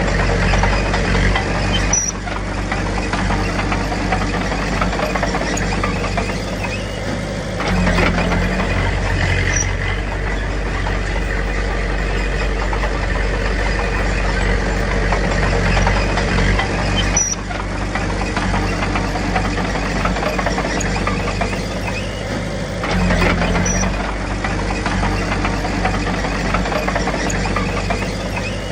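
Komatsu D21P bulldozer's diesel engine running, getting louder and easing off in turn as it works under changing load: louder stretches at the start, from about eight seconds in, and again near the end.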